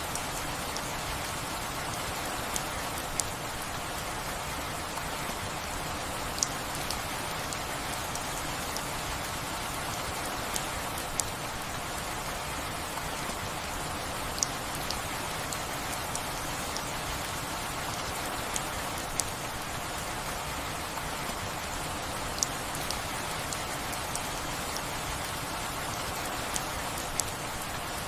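Steady rainfall making an even hiss, with sharp single drip ticks standing out in pairs about every four seconds.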